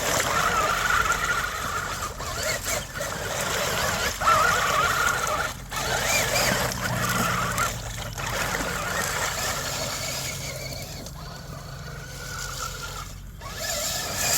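Electric motor and gear drivetrain of an Axial SCX6 RC crawler whining as it drives through wet mud, the whine rising and falling and cutting out briefly several times with the throttle.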